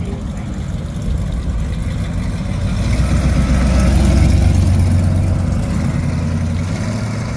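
A car engine running with a low, steady note, growing louder to a peak about four seconds in and then easing off.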